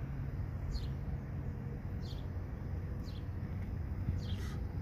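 A bird repeating a short, downward-sliding chirp about once a second over a steady low hum.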